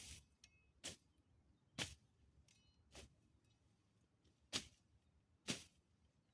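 Quiet, repeated swishing strokes of a garden hand tool through vegetation, a short whoosh about once a second, seven in all.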